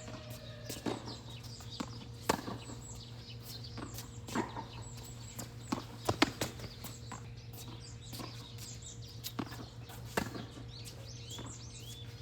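Tennis rally: sharp pops of the racket striking the ball and the ball bouncing on the court, one every second or so, irregularly spaced.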